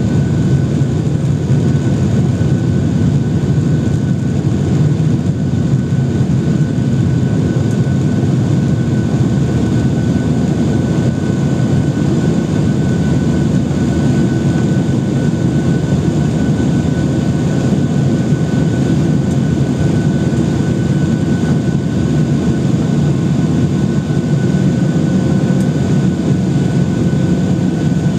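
Boeing 737-800 cabin noise: the CFM56 jet engines run with a steady low hum and a thin, steady high whine, heard from inside the passenger cabin.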